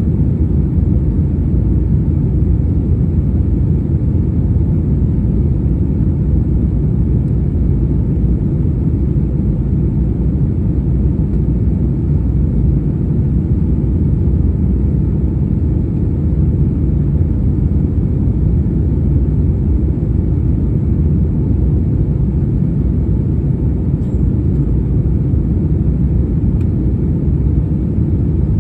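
Airliner's jet engines giving a steady low rumble.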